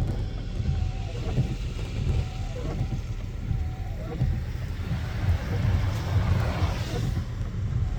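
Car driving on a snowy road: a steady low rumble of engine and tyres, with a rushing hiss that swells and fades about six seconds in.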